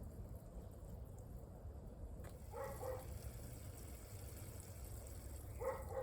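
Two short animal calls, about three seconds apart, over a faint steady hiss.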